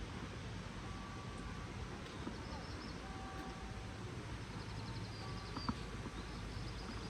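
Steady rain ambience in a village street: an even wash of rain noise over a low hum, with a few short high whistled notes and a sharp click near the end.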